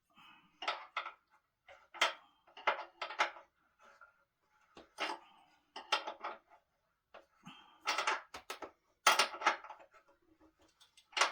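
Irregular clinks and knocks of metal hardware and tools being handled while a wooden dining table is put together, in about seven short clusters.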